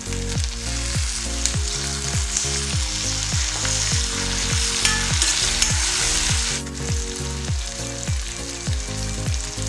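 Onions, green chillies and freshly added tomato pieces sizzling in hot oil in a kadai as they are stirred; the sizzle drops off sharply about two-thirds of the way through. Under it runs a steady low beat of about two thumps a second.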